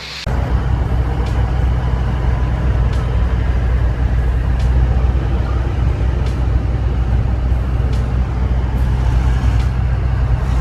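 Heavy vehicle engine running loud and steady, a deep continuous rumble with a rough noisy wash above it.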